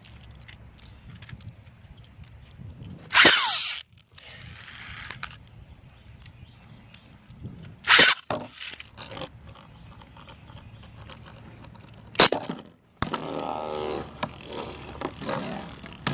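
Beyblade spinning tops in a plastic stadium. There are three loud, short scraping bursts about four seconds apart, and from about three seconds before the end a steady whir of the tops spinning.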